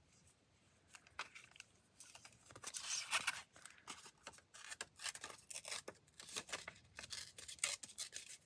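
Scissors cutting paper: an irregular run of short, crisp snips and rustles, starting about a second in.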